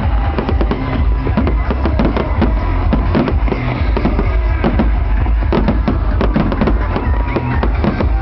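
Fireworks display: a dense run of rapid bangs and crackles over a constant low rumble.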